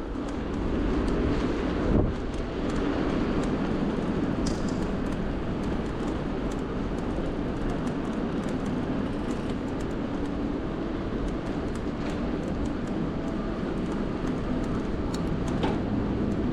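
Steady road and wind noise from riding an electric bike along city streets, mixed with surrounding traffic, with a single knock about two seconds in.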